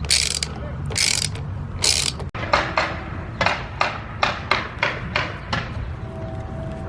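A hand ratchet wrench worked in short strokes, about three a second, tightening fasteners while the lawn mower's carburetor is reassembled. Before the ratcheting come three short hissing bursts.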